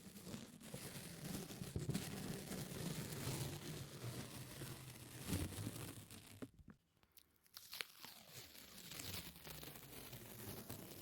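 Close-miked sticky ASMR sounds: something tacky is pressed and pulled apart again and again, making a continuous crackling, tearing noise. It breaks off briefly a little past the middle, then starts again.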